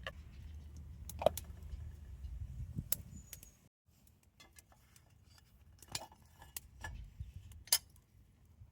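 Scattered light clinks and knocks of utensils and dishes being handled, over a low rumble that stops abruptly about four seconds in.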